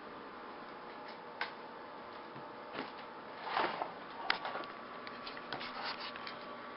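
Small plastic clicks and a brief scraping rustle of hands handling a model railroad DCC controller, over a faint steady hum. A sharp click comes about a second and a half in, the rustle shortly after the middle, and a run of light clicks near the end.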